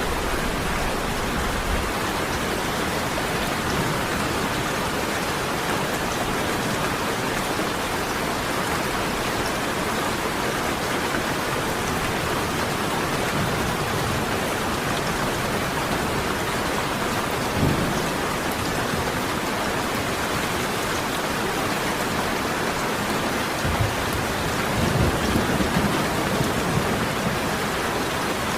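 Steady heavy rain falling, an even hiss of many drops. A short low thump comes about 18 s in, and more low thumps come around 25 s.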